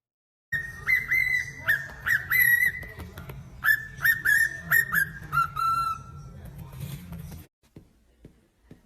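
A pet parrot whistling a tune: a run of short, clear whistled notes with quick upward flicks, ending on a lower held note. It cuts off suddenly, followed by a few faint clicks.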